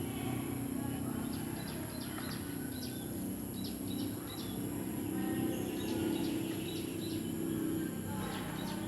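Small birds chirping over and over, short high calls, over a steady low hum.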